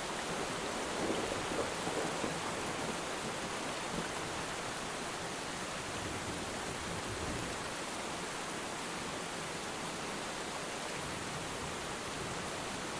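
Steady rain falling by the sea, an even hiss of rain with soft waves, swelling a little louder a few times in the first two seconds.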